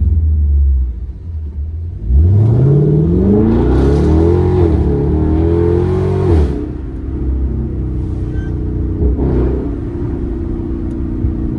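Car engine and exhaust under hard acceleration: about two seconds in the revs climb steeply for several seconds, hold briefly, then drop off sharply as the throttle is lifted, before the car settles back to steady cruising.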